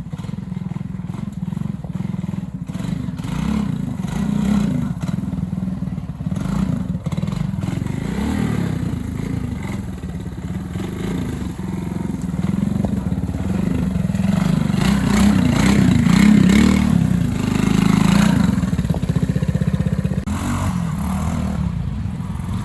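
Trials motorcycle engine running at low revs, swelling louder about two-thirds of the way through and then easing, with scattered clatter.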